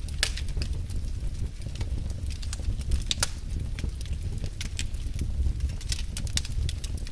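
Fireplace fire crackling: irregular sharp pops and snaps over a steady low rumble, with a louder pop about three seconds in.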